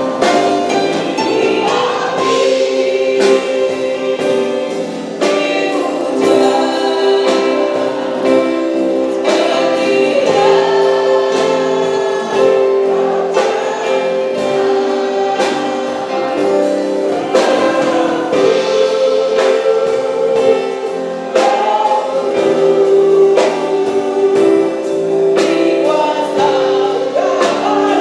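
Christian worship music: many voices singing together in a gospel-style song with instrumental accompaniment and a beat.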